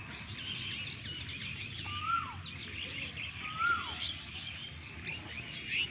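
Several birds chirping and twittering, with one bird twice giving a short whistled call that rises and then drops.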